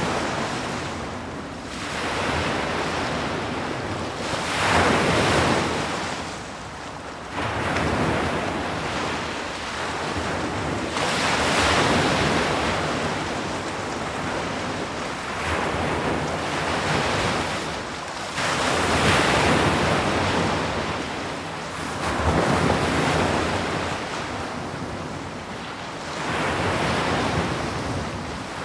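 Sea waves breaking on a shore, a rushing wash that swells and fades about every three to seven seconds, with the biggest surges roughly a third and two-thirds of the way through.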